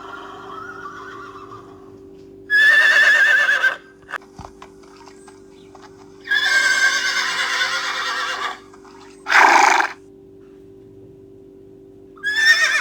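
Horse whinnying, several quavering calls: one about two and a half seconds in, a longer one from about six to eight and a half seconds, a short lower one near ten seconds, and another starting near the end.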